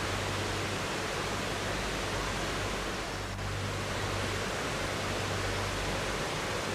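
River water rushing in a steady, even wash, dipping briefly about halfway through.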